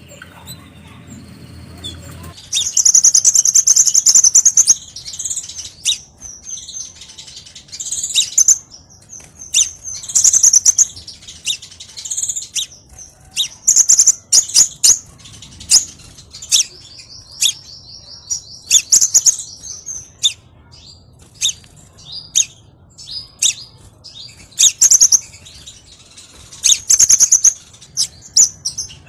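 Small songbird sold as 'kolibri' in Indonesian bird keeping (a sunbird) calling: sharp, high-pitched chirps and short twittering phrases repeated every second or two, starting a couple of seconds in, with a rapid buzzy trill about halfway through.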